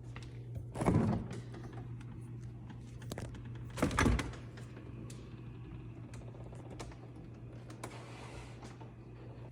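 Items being handled and set down: two louder knocks, about a second in and about four seconds in, and scattered light clicks, over a steady low hum.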